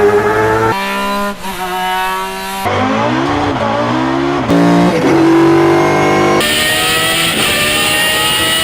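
Race car engines revving hard, in a rapid string of separate clips that cut abruptly every second or two. The engine pitch climbs and then drops sharply as the cars change gear.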